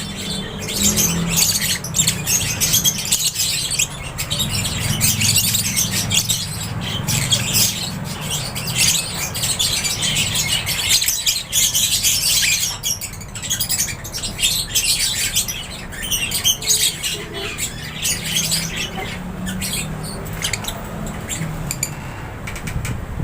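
A flock of African lovebirds and budgies chirping and squawking in an aviary: a dense, unbroken chatter of short, high-pitched calls over a steady low hum.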